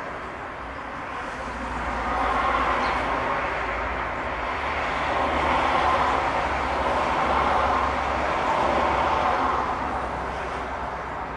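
Vehicle noise with a steady low rumble underneath, swelling and easing several times.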